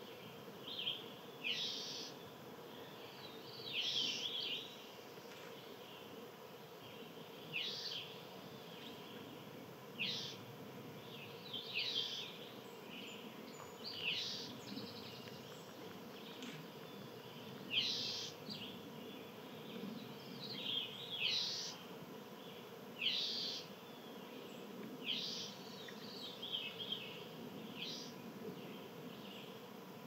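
Small songbirds giving short, sharp chirps, one every one to three seconds, over a faint steady hum.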